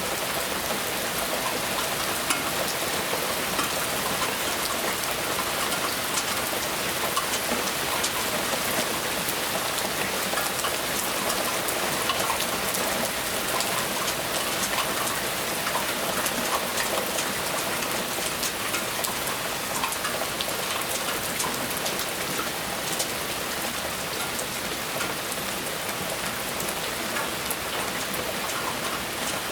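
Steady rain falling, an even wash of noise with many individual drops striking close by.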